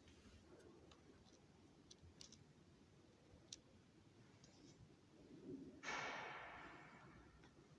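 Near silence with a few faint clicks, then a short hiss about six seconds in that fades away over a second.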